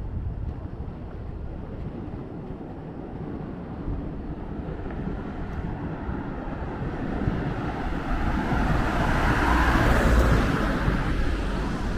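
Street traffic with a vehicle approaching and passing close, loudest near the end, over a low rumble of wind on the microphone.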